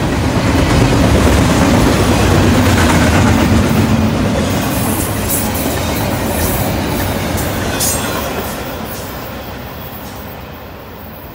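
Double-stack intermodal freight train passing close by. Its well cars make a steady rumble of wheels on the rails, with some sharp clicks partway through. The sound fades over the last few seconds as the end of the train passes and goes away.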